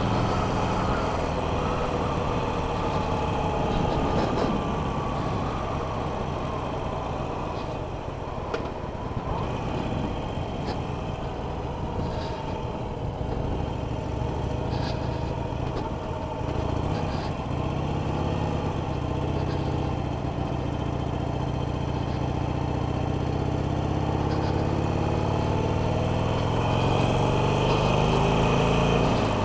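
Harley-Davidson Sportster 883 Iron's air-cooled V-twin running on the move, heard through the rider's helmet headset microphone. Its note falls over the first several seconds as the bike slows for a roundabout, then rises steadily in the last several seconds as it pulls away.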